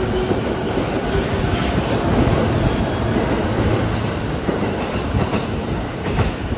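JR East E233-1000 series electric commuter train pulling out and rolling past the platform, its cars rumbling steadily with wheels clattering over the rail joints. A few sharp clacks come near the end.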